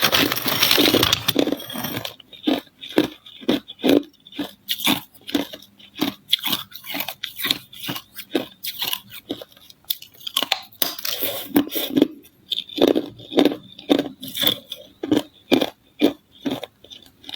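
Ice being chewed close to the microphone: a long burst of crunching as a mouthful is bitten into over the first couple of seconds, then steady chewing crunches, about two or three a second.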